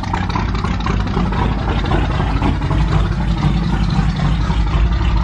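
A vehicle engine running steadily with a deep, continuous rumble.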